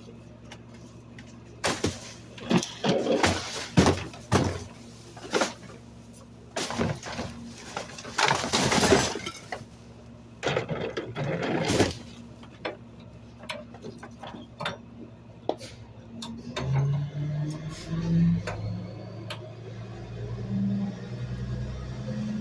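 Trash bags and loose refuse thrown into a rear-loading garbage truck's hopper, landing in a run of loud crashes with breaking glass. About three-quarters of the way in, the truck's engine picks up with a low, shifting hum as the packer starts to cycle.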